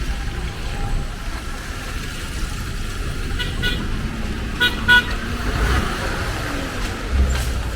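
Street traffic with a steady low rumble, and a vehicle horn giving short toots about halfway through: a couple of faint ones, then two loud quick toots close together.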